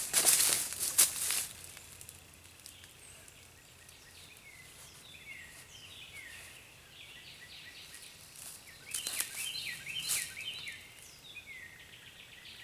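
Brief rustling and scraping, then birds chirping in many short downward-sliding calls, with another short burst of rustling about nine seconds in.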